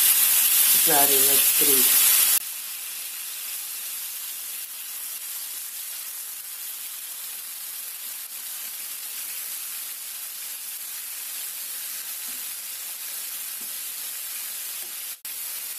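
Flour-dredged liver pieces sizzling in hot oil in a frying pan. The sizzle is loud for the first couple of seconds, then drops suddenly to a quieter, steady sizzle, with a brief break near the end.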